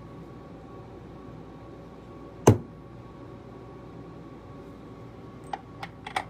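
A single sharp hammer strike on a steel letter stamp, impressing a letter into a metal blank, about two and a half seconds in. Light clicks of the stamp being set against the sticker guide come near the end.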